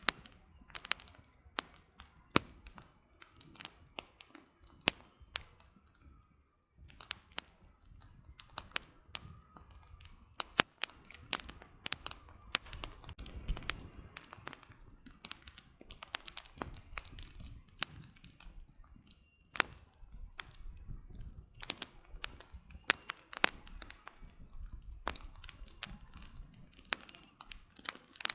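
Wood campfire crackling: irregular sharp snaps and pops of burning firewood, several a second at times, with a short lull about six seconds in.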